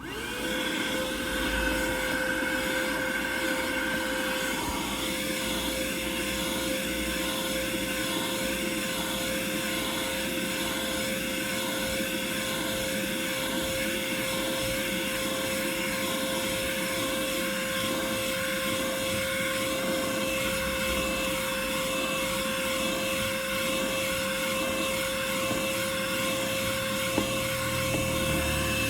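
Vacuum cleaner switching on and running steadily, with a constant motor whine.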